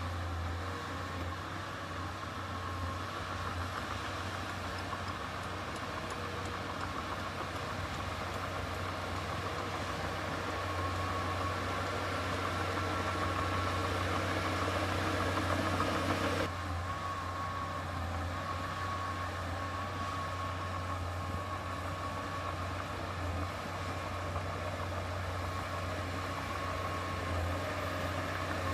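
Heavy earthmoving machine's diesel engine running steadily with a deep hum and a faint high whine. The sound changes abruptly about halfway through.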